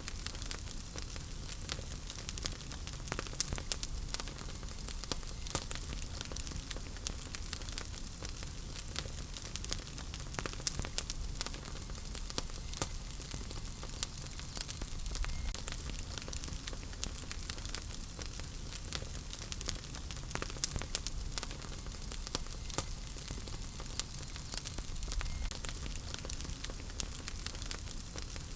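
Wood fire burning in a fireplace: frequent irregular crackles and pops over a steady hiss and a low rumble of flames.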